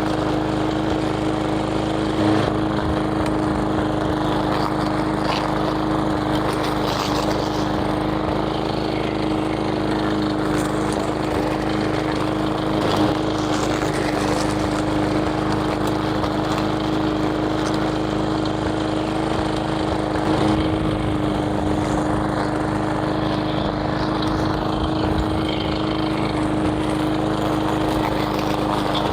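A small engine running steadily at one speed, with a few brief knocks over it.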